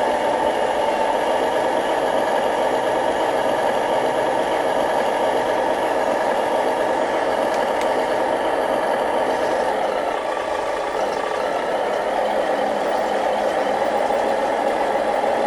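A remote-control model construction machine running: a steady mechanical drone with a fine, rapid rattle, dipping slightly about ten seconds in.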